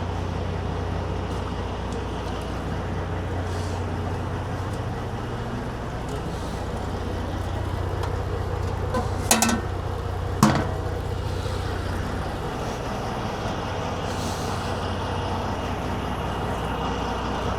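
Kenworth W900 semi truck's diesel engine running with a steady low drone, with two sharp clicks about nine and ten and a half seconds in.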